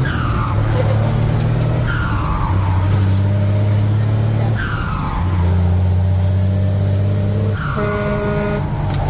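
Truck engine running on the road, its note stepping down and back up several times as the speed changes, with a short falling hiss every two to three seconds.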